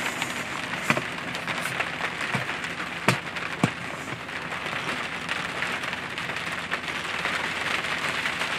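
Rain falling on a pickup truck's camper shell and its rear window, heard from inside: a steady hiss with a few louder taps, the sharpest about three seconds in.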